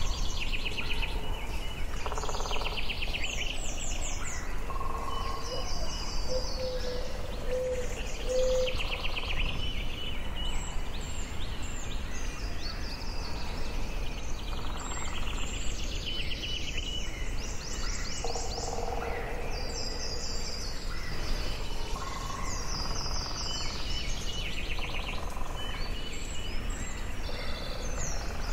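Forest birdsong: several birds singing at once, with rapid high trills and chirps overlapping and some lower whistled notes, over a steady low background rumble.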